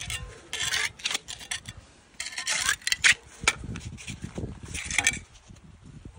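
Several short bursts of scraping and rustling, mixed with clicks and small knocks, about a second apart to two seconds apart.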